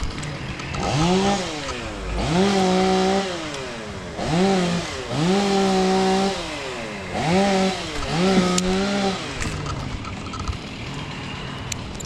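Chainsaw revved up to full speed about six times, each burst a second or so long, dropping back to idle in between.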